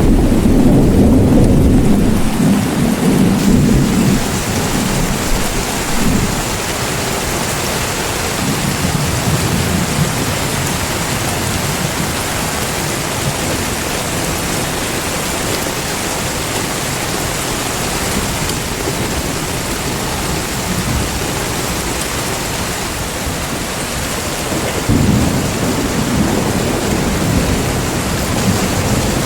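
Heavy rain falling steadily, with rolling thunder rumbling at the start, fading after a few seconds, and rumbling again near the end.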